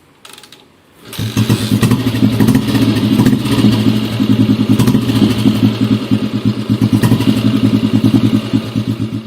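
Vintage motorcycle engine running with a rapid, even pulsing beat. It comes in suddenly about a second in and holds steady.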